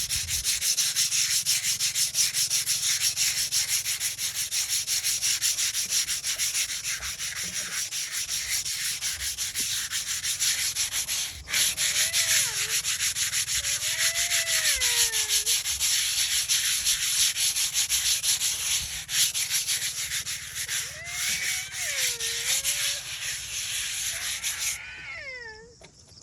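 A stone being ground and rubbed to shape it into a ball: a loud, steady rasping scrape of fast repeated strokes that stops suddenly near the end.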